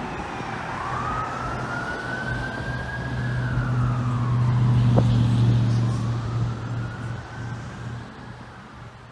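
A fire truck's siren in a slow wail, rising and falling in pitch, over the low drone of the truck's engine. The sound is loudest about halfway through as the truck passes, then fades away.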